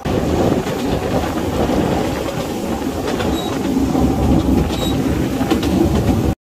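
Narrow-gauge mountain train running, heard from on board: a steady loud rumble of wheels on rail with a few faint clicks and two brief high squeaks midway. It cuts off abruptly near the end.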